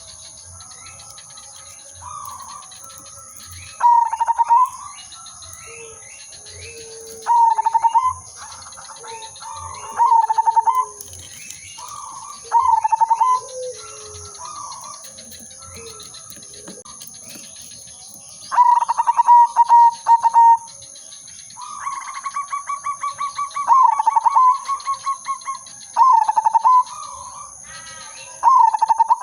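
Zebra doves (perkutut) cooing: about every two to three seconds a loud phrase, a quick stutter of pulses running into a clear ringing note, with softer, lower coos from another bird between phrases in the first half. A steady high-pitched whine runs underneath.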